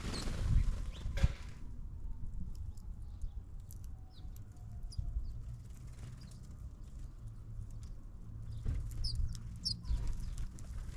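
A brief flutter of bird wings in the first second, then scattered short, high chirps from small birds over a steady low rumble.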